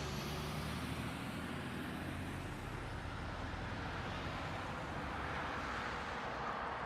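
Steady, even vehicle noise, a low engine and road hum from a motor vehicle on the move, with no sudden events.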